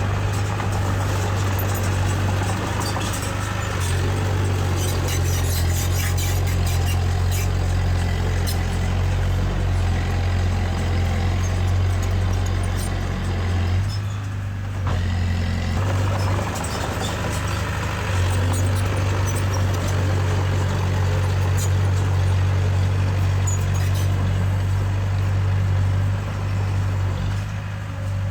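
Heavy diesel earthmoving machinery running steadily, a low engine drone with scattered clanks and rattles over it; the sound drops briefly about halfway through and again near the end.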